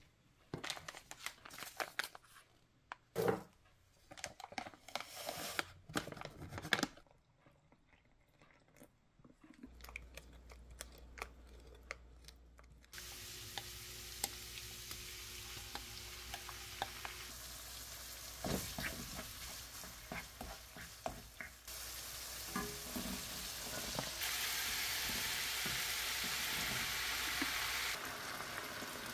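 A few knocks and clatters of kitchen handling, then a steady sizzle of chicken frying in melted butter in a nonstick wok, with stirring. The sizzle gets louder near the end as cabbage, carrot and chicken are stir-fried.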